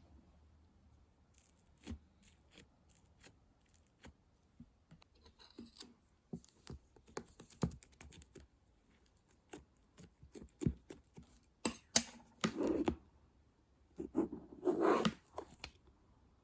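Hands working slime, making scattered sticky clicks and pops that grow denser partway through, with two longer squishing sounds in the last few seconds.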